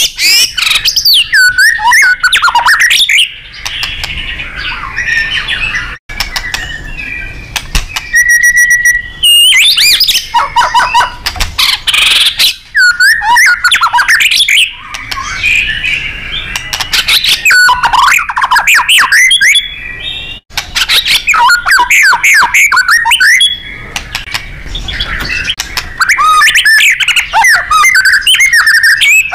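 White-rumped shama (murai batu) singing loudly and continuously: a fast, varied run of sweeping whistles, trills and harsh chattering notes with only brief lulls. Around 8 seconds in comes a short steady whistled note.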